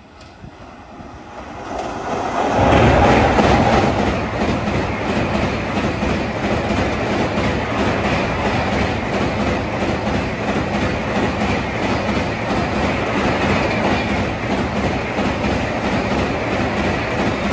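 WAP-7-hauled LHB express train crossing a steel girder railway bridge at high speed. The sound builds over the first two to three seconds as the locomotive arrives and is loudest about three seconds in. It then holds as a steady, dense clatter and rumble of the coach wheels over the bridge.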